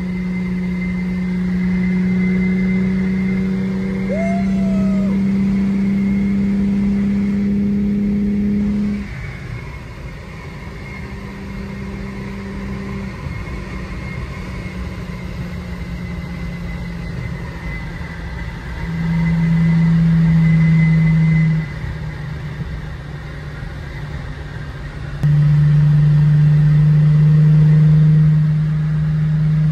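Mercedes-Benz W210 sedan's engine heard from inside the cabin, pulling with a slowly rising note for about nine seconds. It then eases off to a quieter cruise with tyre and road noise, and pulls harder again twice, briefly about two-thirds of the way in and again near the end.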